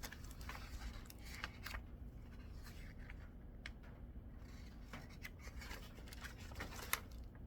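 Scattered light clicks, taps and rubbing from hands handling coilover parts and tools, with one sharper click about seven seconds in, over a low steady hum.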